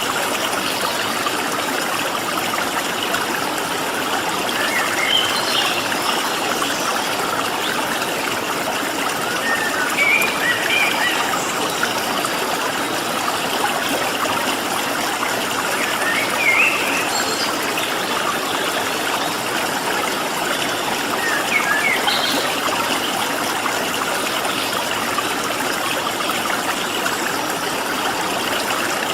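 Water flowing steadily in a stream, with short bird chirps every few seconds over it.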